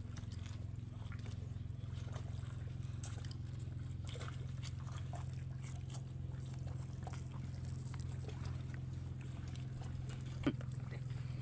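Close-up eating sounds: chewing and lip smacking on grilled fish, faint scattered wet clicks, over a steady low hum.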